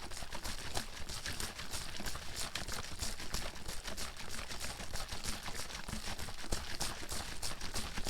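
Water bottle being shaken hard and continuously: rapid, uneven sloshing and splashing of water inside the bottle with sharp knocks.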